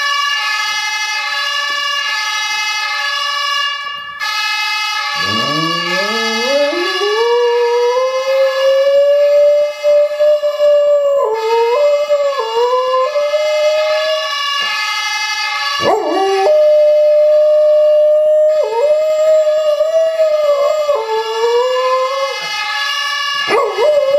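Martinshorn siren sound played through a mobile phone's speaker, with a dog howling along to it. The howl starts about five seconds in as a long rising glide, then holds near the siren's pitch, wavering and breaking off a few times before starting again.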